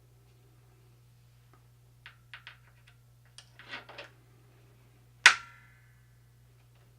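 A few light clicks and a short clatter of small metal parts being handled, then one sharp metallic clang a little after five seconds in that rings briefly as a metal object hits a hard surface. A low steady hum runs underneath.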